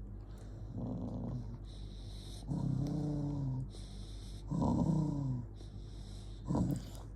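Angry dog growling in four rough, pitched rumbles, the middle two longest and loudest.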